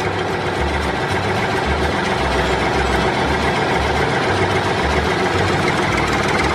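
Small engine of a homemade mini tractor running steadily, under background music with a stepping bass line.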